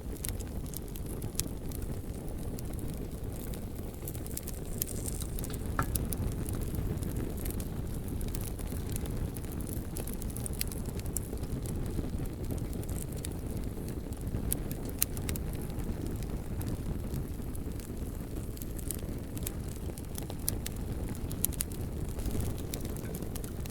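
Bonfire burning with a steady low rumble and frequent sharp crackles and pops from the burning wood.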